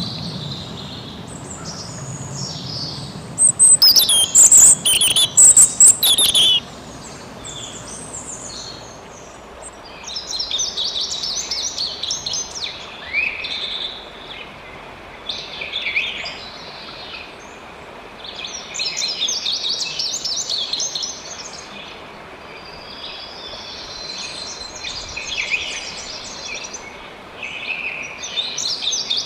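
Wild songbirds singing and chirping in repeated, overlapping phrases over a steady rush of running water. The loudest, sharpest calls come in a burst a few seconds in, then the song comes in rounds every few seconds.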